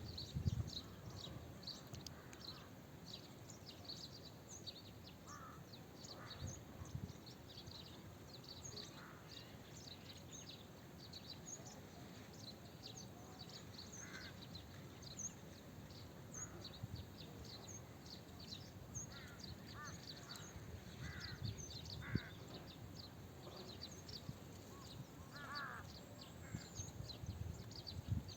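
Birds calling: many small birds chirping rapidly and continuously, with a few lower, harsher calls every few seconds, over a faint low rumble.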